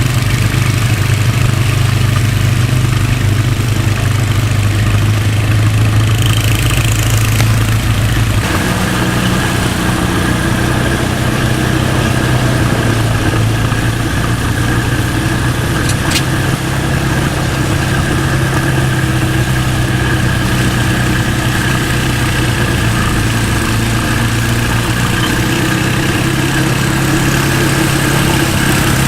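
Briggs & Stratton 4 hp single-cylinder engine of a late-1980s Montgomery Ward snowblower running steadily, warming up after a cold start. Its note changes slightly about eight seconds in, and there is one brief click about halfway through.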